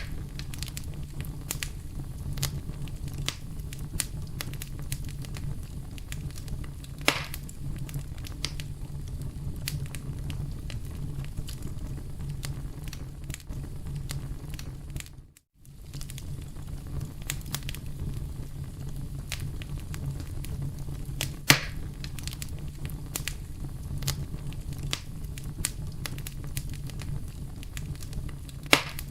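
Campfire burning with a steady low rumble and constant crackling, with louder pops about 7 seconds in, about 21 seconds in and near the end. The sound cuts out for a moment about halfway through.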